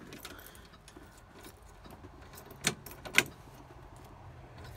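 Faint rattling and two sharp clicks about half a second apart, from switches and controls being worked inside the 1966 Ford Thunderbird.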